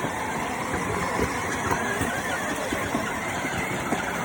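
A car running on the road, a steady mix of engine and road noise with small irregular knocks and rattles.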